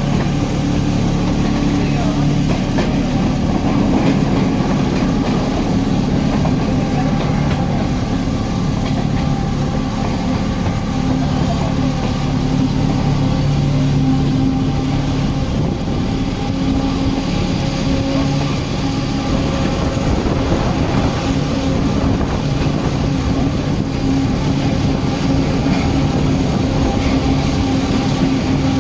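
Renfe series 442 electric train running: a steady hum over an even rumbling noise.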